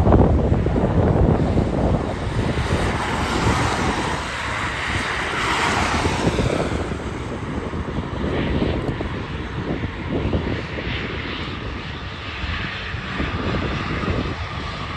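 Jet airliner engines heard loud as the aircraft passes by the airport. A dense, loud rush of engine noise has a high whine that swells about five seconds in, then eases to a steadier sound.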